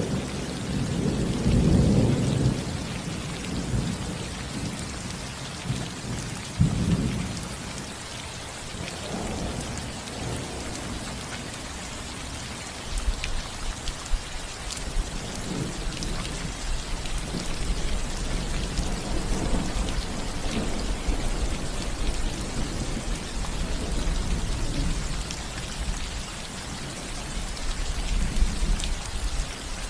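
Steady rain falling on a roof, with thunder rumbling: strongest in the first few seconds and again about seven seconds in, then a lower, drawn-out rumble through much of the second half.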